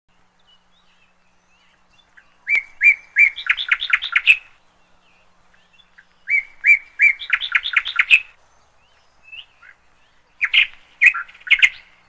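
A songbird singing: two matching phrases, each a few clear repeated notes followed by a quick run of faster notes, then a shorter broken phrase near the end.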